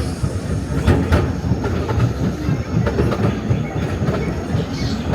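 Small theme-park ride train running along its track: a steady low rumble with irregular clicks and clatter from the wheels and carriages.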